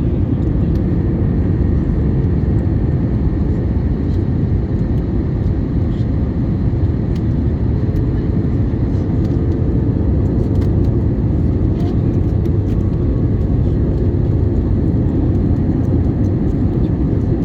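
Steady in-flight cabin noise of an Airbus A321neo airliner: a constant rumble of engines and rushing air, with a faint steady hum.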